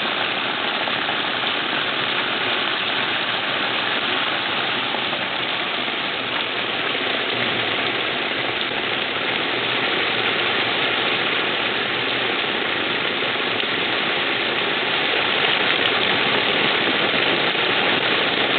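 Heavy rain pouring down in a sudden burst, a dense steady hiss that grows a little louder near the end.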